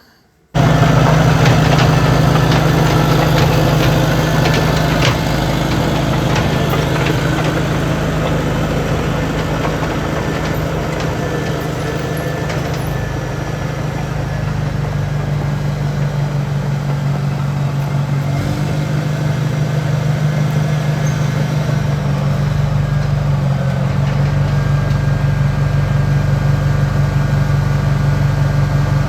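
Track loader engine running at a steady speed, cutting in abruptly at the start, with a few short knocks a few seconds in.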